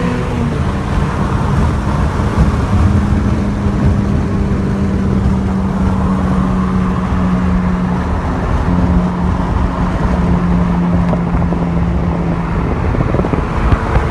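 Car engine running with a loud, steady low drone.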